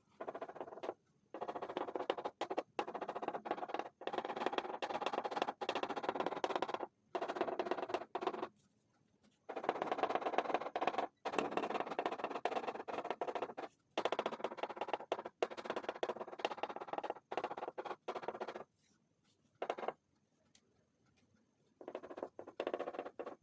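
Pastel rubbed across paper in quick, scratchy back-and-forth strokes, coming in runs of a few seconds with short pauses between them.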